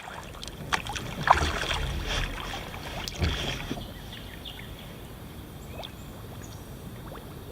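Kayak paddling on a river: paddle strokes in the water with splashing and a few sharp knocks for the first few seconds, then quieter water and hiss.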